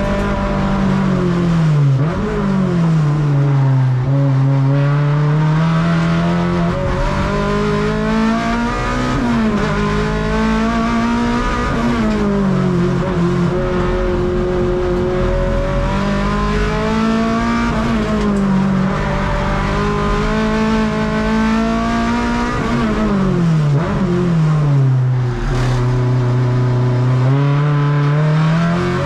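Honda K24A inline-four in an EG6 Civic race car, heard from inside the cabin at racing speed. The engine pitch climbs steadily under acceleration and drops sharply several times as the car slows for corners.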